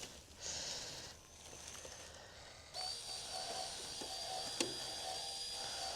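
Faint, steady high whine of a small electric motor on an RC crawler during a winch recovery, with one small click part-way through.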